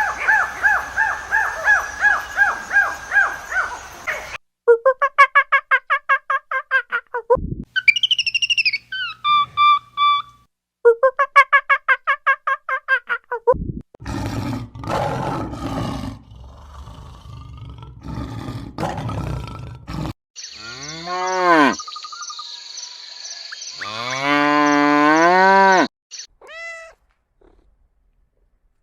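A run of different animal calls cut one after another. First come fast runs of short repeated pitched calls, then a whistled, bird-like call falling in pitch, then a rough, noisy roar. Near the end come long calls that rise and fall in pitch.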